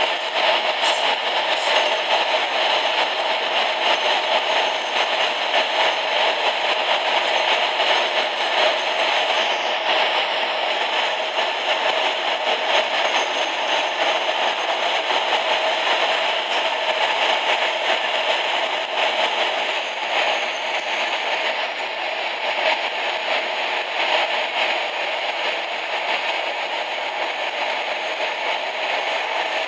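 DA-class diesel-electric locomotive and its train running at close to 100 km/h inside a long rail tunnel, giving a steady, loud noise of engine and wheels on the rails. The noise eases slightly in the last third as the tunnel mouth nears.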